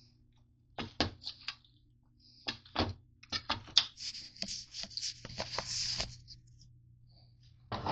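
Handling noises: an irregular run of sharp clicks and knocks, with a stretch of rustling between about four and six seconds in, over a steady low hum.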